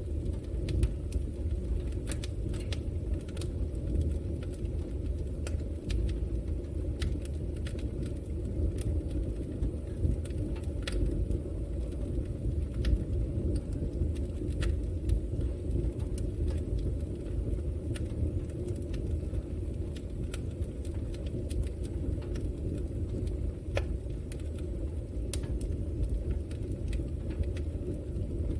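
Wood fire burning in a fireplace: a steady low rumble of flame with scattered, irregular crackles and pops.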